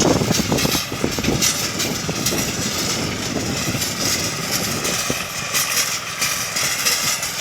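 Compact 4x4 tractor's small 18 hp diesel engine running steadily while driving a rototiller through soil.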